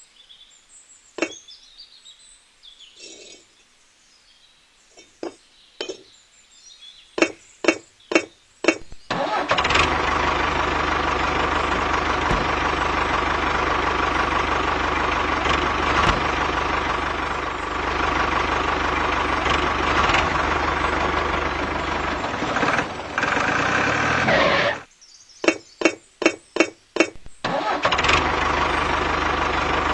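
Small engine of a homemade mini tractor being started: a few sharp firing pulses that come faster until it catches and runs steadily. It cuts out suddenly, fires a few more times and starts running again near the end.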